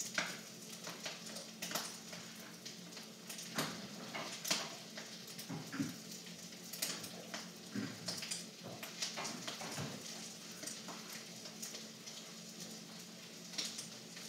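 Spatula clinking and scraping against a wok as fried rice is stirred, in irregular knocks over a steady low hum and faint sizzling.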